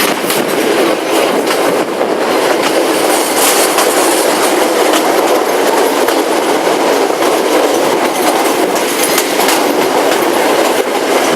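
Passenger train running along the line, heard from aboard: a loud steady rush of wheel and carriage noise with scattered clicks and rattles from the wheels on the track.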